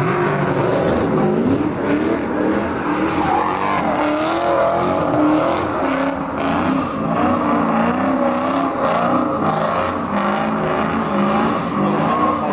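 A car's engine revving up and down over and over, with tyres screeching, as the car spins in a sideshow donut.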